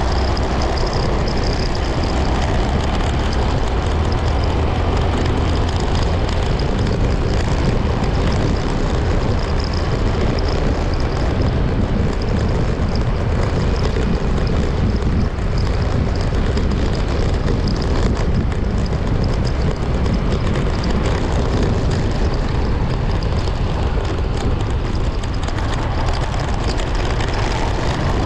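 Steady vehicle noise while riding through city traffic: wind rumbling on the microphone over engine and road noise, with no sharp events.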